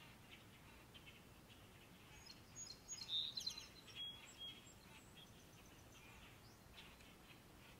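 Small songbirds chirping faintly, with a brief flurry of high, short calls and tweets a little before the middle.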